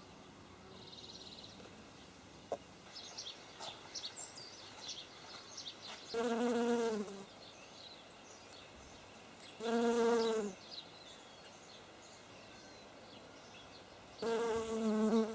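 An insect buzzing close by in three separate spells of about a second each, at a steady low pitch. Faint, high bird chirps sound between them.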